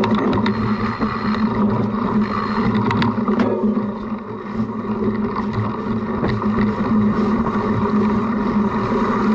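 Steady wind and ride noise from the bike, taken in by an action camera mounted on the front of a cyclocross bike being ridden over a rough course, with a few sharp knocks and rattles from the bumps.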